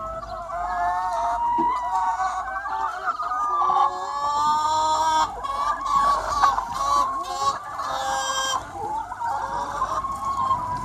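A large flock of free-range hens clucking continuously, many calls overlapping. Louder, sharper calls stand out from about four to eight and a half seconds in.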